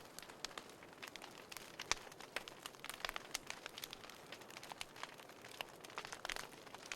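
Small wood fire crackling in a folding fire stand: irregular sharp pops and snaps over a soft hiss, one louder snap about two seconds in.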